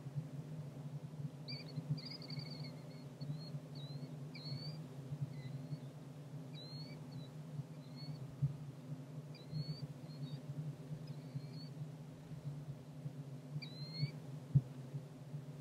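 Bird calls: short, rising, squeaky notes, singly and in little runs at irregular intervals, over a steady low hum.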